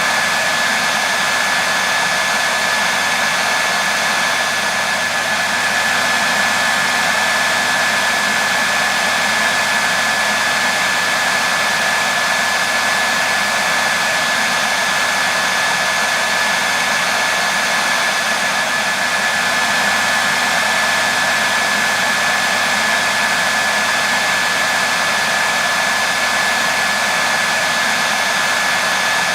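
Handheld hair dryer running steadily: a constant rush of blown air with a high motor whine held at one pitch.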